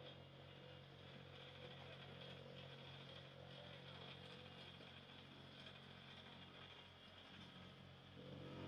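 Faint, steady drone of a heavy engine running, with a low, regular pulsing under it.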